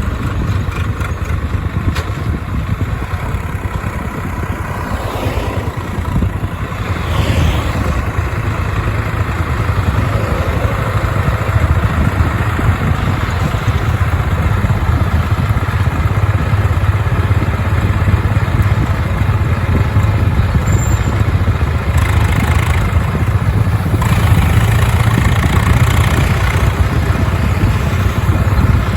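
Mahindra 575 DI tractor's diesel engine running steadily under a heavy sugarcane load, with a rough clatter and road noise; it gets a little louder after about seven seconds.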